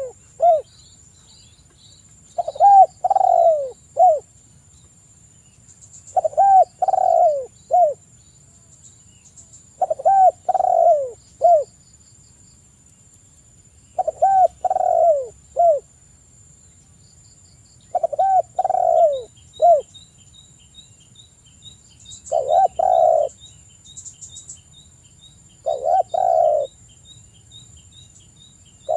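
Spotted dove cooing: a phrase of three or four coos, repeated about every four seconds, seven times in all. Faint high chirping from small birds and a steady high-pitched tone run underneath.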